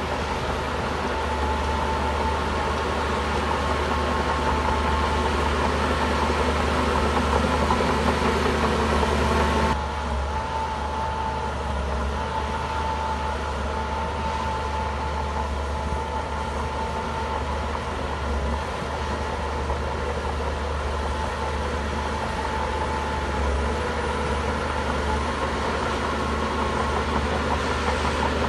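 Shantui bulldozer's diesel engine running steadily with a constant low hum, the sound dropping slightly about ten seconds in.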